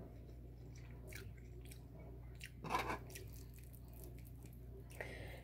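Close-up chewing of soft, overcooked instant ramen noodles, with faint wet mouth clicks and one louder brief sound near the middle. A steady low hum runs underneath.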